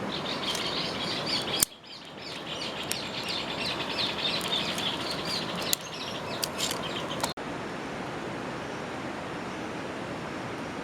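Birds chirping in quick, dense succession over a steady background hiss. The chirping breaks off abruptly about two seconds in, resumes, then cuts off suddenly about seven seconds in, leaving only the hiss.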